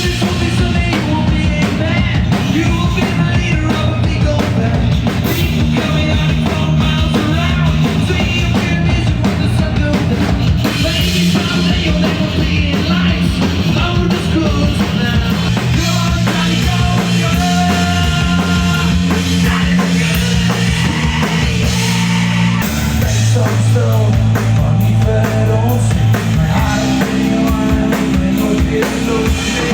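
Rock'n'roll band playing live, with a drum kit keeping the beat under bass and other instruments.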